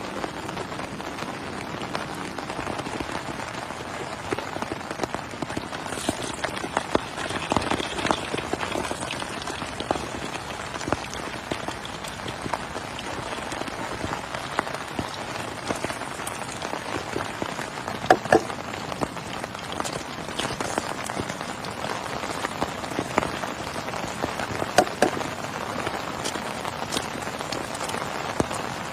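Heavy rain falling steadily, with the sharp taps of individual drops striking a surface close by. A few louder drop strikes stand out a little past the middle and again about three quarters of the way through.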